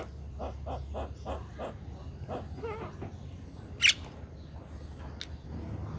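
A bird calling: a run of short repeated notes, about three a second, then a quick wavering call. A sharp click near the middle.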